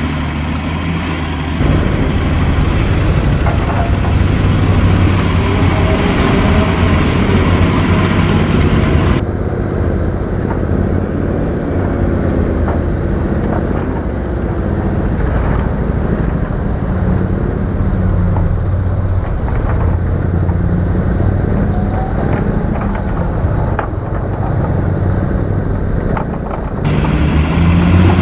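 Diesel engine of heavy earthmoving machinery running and working, its pitch rising and falling as it is throttled. The sound changes abruptly about two seconds in, about nine seconds in, and near the end.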